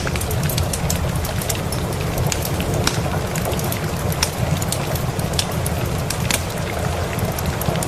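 Steady rain mixed with a wood fire crackling, with many sharp pops scattered throughout over a low, continuous rumble.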